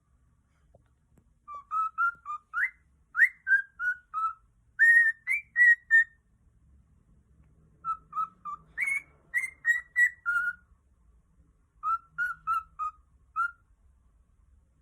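Cockatiel whistling, short chirpy notes strung into three phrases with brief pauses between them.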